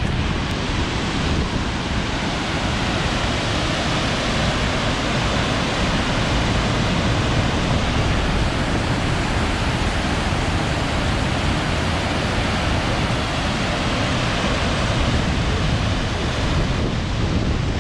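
Steady, unbroken rushing of a waterfall, with a deep rumble that may be partly wind on the microphone.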